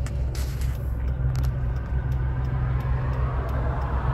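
Car engine idling, heard from inside the cabin as a steady low rumble. A few light clicks come in the first second and a half, and a hiss swells near the end.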